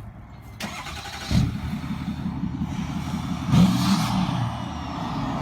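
Ford Powerstroke V8 turbo-diesel breathing through a 5-inch straight-pipe exhaust, revved twice: a rise about a second in, then a louder surge about halfway through.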